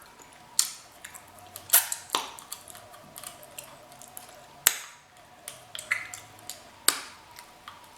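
Sharp, scattered mouth clicks and smacks of someone eating crab close to the microphone, about five louder ones over several seconds, over a faint steady hum.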